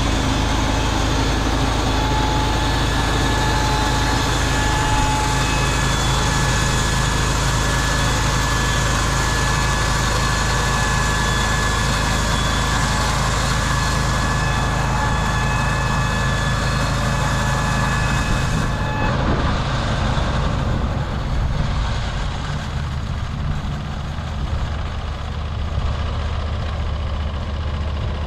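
Norwood LumberPro HD36V2 portable band sawmill running, its blade cutting through wood with a steady hiss and whine over the engine. About two-thirds of the way in the cutting hiss drops away, leaving the engine running on.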